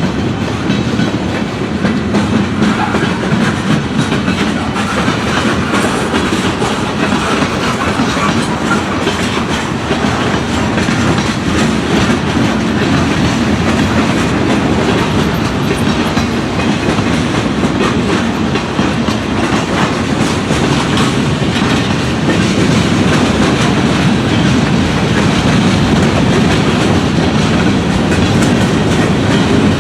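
A train's railroad cars rolling steadily past, wheels clicking and clacking over the rail joints.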